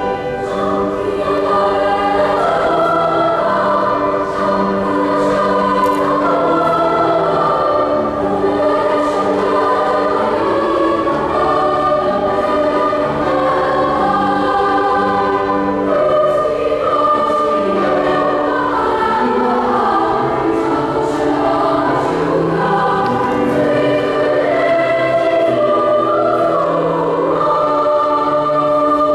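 A choir singing a sacred choral piece in sustained, flowing phrases without a break.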